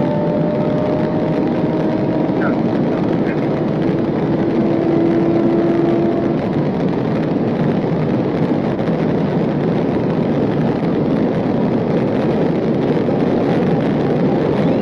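Patrol car driving at high speed in a pursuit: a steady roar of road and wind noise, with an engine note rising slowly over the first few seconds before it fades into the roar.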